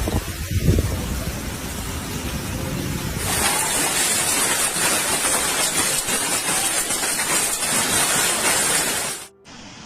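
Steady rushing hiss of water. About three seconds in it turns louder and brighter, then cuts off suddenly near the end.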